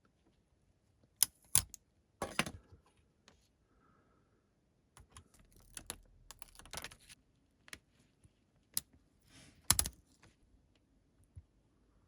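Hands handling a plastic building-brick car model and its sticker sheet: irregular light clicks and taps of plastic, with brief rustling in between and the sharpest click near the end.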